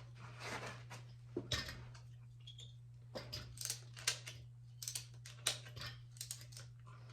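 Irregular light metal clicks and clinks of springer-fork parts being handled as coil springs are fitted onto a Harley WL springer fork, with a steady low hum underneath.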